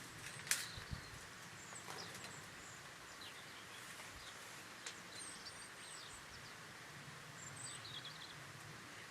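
Quiet outdoor ambience: a steady low hiss with faint bird chirps and a few small clicks, the sharpest about half a second in.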